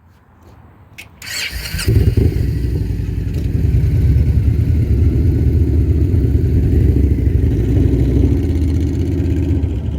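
Motorcycle engine being started: a brief burst of starter cranking, then the engine catches about two seconds in and settles into a steady, low idle.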